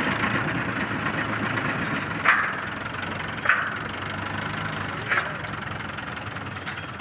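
Kubota MU4501 tractor's diesel engine running steadily at low throttle. Three sharp clanks, each ringing briefly, come about two, three and a half, and five seconds in.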